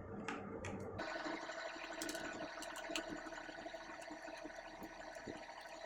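Light scattered clicks and ticks of small screws being worked with a precision screwdriver on an iPhone's display-connector cover plate, over a faint steady hiss and hum.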